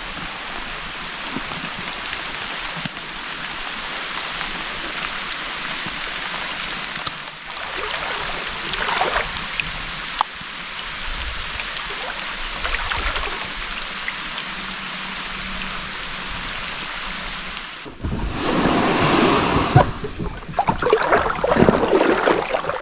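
Rain falling as a steady hiss, with scattered drip-like ticks, and a louder, rougher stretch near the end.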